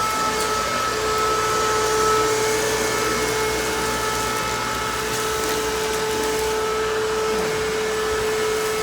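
A small electric motor-driven machine running steadily with a whining hum.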